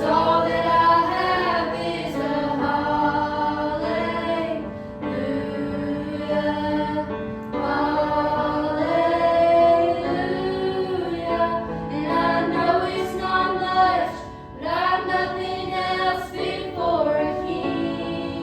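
Youth choir singing a sung worship song, with phrases held and short breaths between them.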